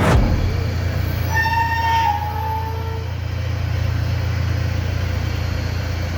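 A train horn sounds one blast of nearly two seconds, starting about a second in, over the steady low hum of the departing train's engine. A sharp knock comes right at the start.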